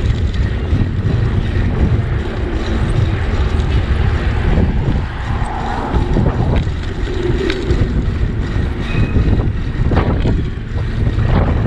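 Wind buffeting the microphone while riding a bicycle, a loud low rumble with a few brief knocks.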